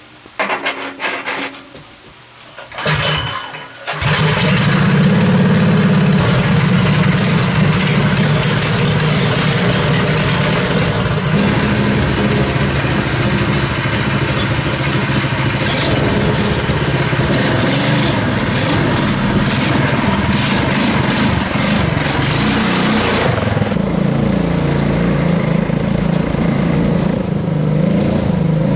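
Small go-kart engine starting: a couple of short bursts, then it catches about four seconds in and keeps running loudly, its pitch rising and falling with the throttle.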